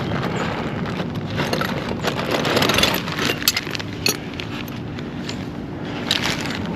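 Metal hand tools and sockets clinking and clicking against metal, with a handful of sharp clinks in the middle, over a steady low hum.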